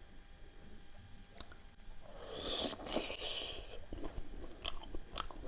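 Close-up eating sounds of someone eating pork curry with rice: a loud, noisy bite about two seconds in, followed by wet chewing with quick clicking mouth sounds.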